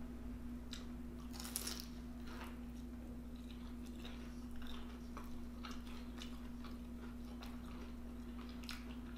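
Close-miked biting and chewing of a fried vegetable egg roll: a loud crunch about a second and a half in, then smaller crunches and chewing clicks, over a steady low hum.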